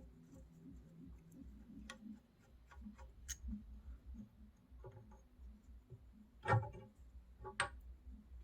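Scattered light clicks and taps, with two louder knocks about six and a half and seven and a half seconds in, over a faint low hum.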